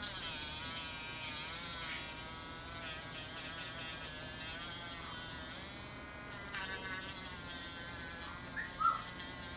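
Small electric rotary nail-grinding tool running with a steady whine, its pitch dipping and wavering as it is pressed against a parrot's toenail to file it down. Two brief chirps sound near the end.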